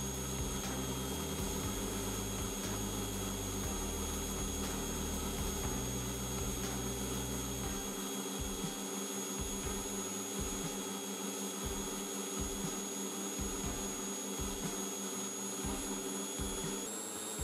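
Electric angle grinder running steadily with a flexible shaft attached, a constant motor whine over a broad hum. Its pitch shifts up slightly near the end.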